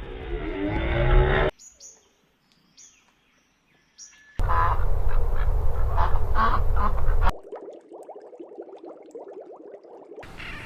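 Ducks quacking in several abruptly cut clips. There is a loud run of rapid quacks in the middle, a softer stretch of dense calls after it, and a short quiet gap early on with faint high bird chirps.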